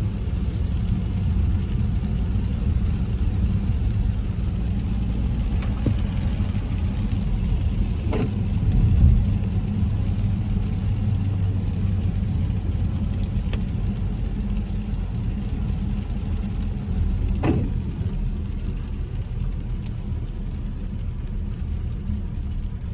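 Steady low rumble of a car's engine and tyres on a wet road, heard from inside the moving car, swelling briefly about nine seconds in, with a couple of faint clicks.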